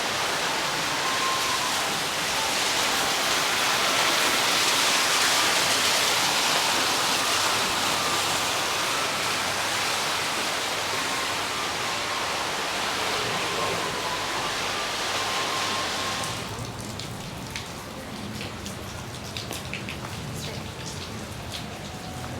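Heavy rain pouring down, a dense steady hiss. About sixteen seconds in it drops to a quieter patter of separate drops tapping on a surface.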